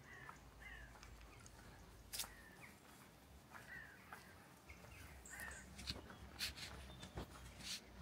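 Faint wild bird calls: short downward-sliding notes repeated every second or so, with a few soft clicks in the second half.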